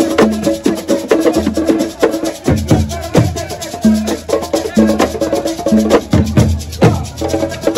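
Assiko music: drums and percussion playing a fast, steady rhythm, with a short pitched phrase that repeats about once a second over it.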